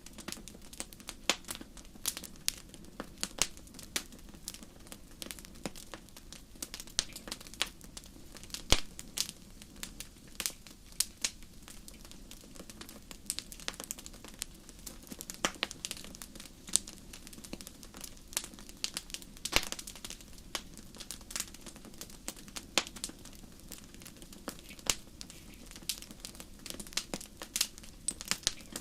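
Fire crackling: irregular sharp pops and snaps, several a second, over a soft steady low background.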